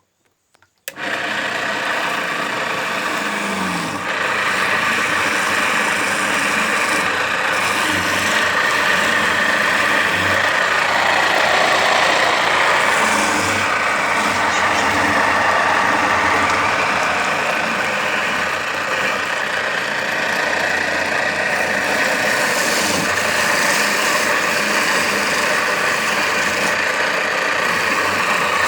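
Homemade fruit juicer driven by a washing-machine motor, running steadily with a dense grinding noise and a steady whine. It starts about a second in and gets louder about four seconds in.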